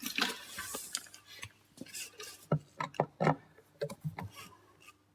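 Hand tools clicking and clinking against the metal and plastic parts of a van door as screws are undone. There is a short rustle about a second in, then irregular sharp knocks and ticks.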